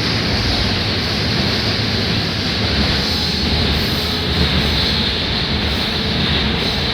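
Rusich metro train running steadily between stations, its wheels and running gear giving a continuous rumble and hiss heard from inside the car.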